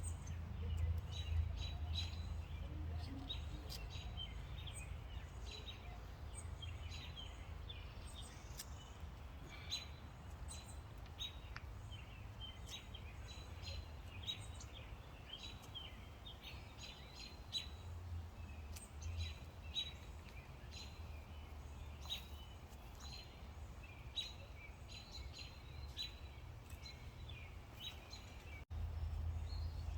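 Birds chirping and calling over and over in short notes, over a steady low rumble.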